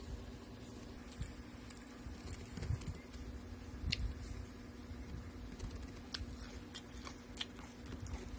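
Close-up chewing and biting of chopped fruit salad (guava, cucumber and tomato), with scattered sharp clicks of a metal fork against a glass bowl. A steady low hum runs underneath.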